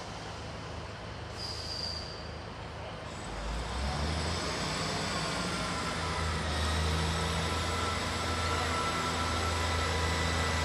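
Diesel multiple unit train arriving slowly at a platform. Its underfloor diesel engine drone comes in and grows louder about three seconds in as it draws near, with faint high whining tones joining from about halfway.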